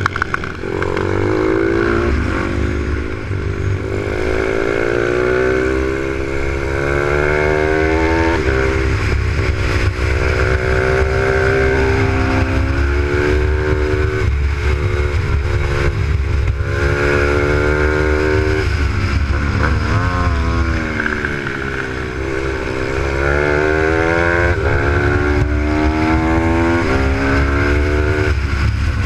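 A Z155 supermoto pit bike's single-cylinder engine, heard onboard while lapping. It revs up in repeated rising sweeps, drops back in pitch at each gear change, and eases off into corners, over heavy rumble from wind and the road.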